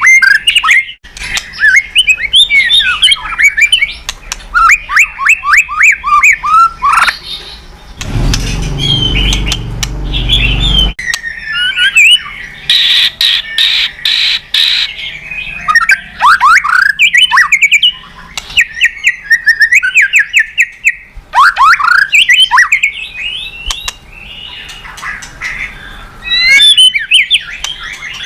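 White-rumped shama singing without pause: quick, varied phrases of rapid trills, sliding whistles and harsh chattering notes. About eight seconds in, a rough rushing noise with a low rumble lasts around three seconds before the song resumes.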